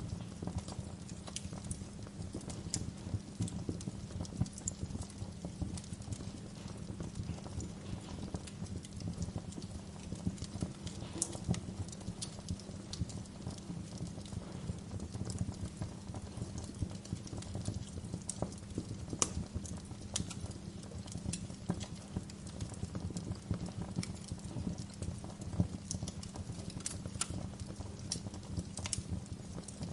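Wood fire crackling steadily, with frequent small pops and scattered sharper snaps.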